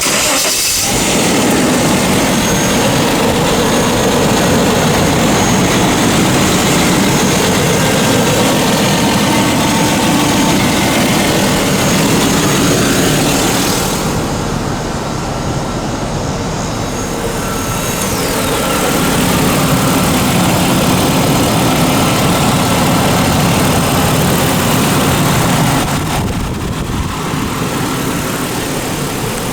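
A 1996 Jaguar's inline-six engine running, under a loud, steady rushing of wind and road noise. The hiss thins out for a few seconds about halfway through and again near the end.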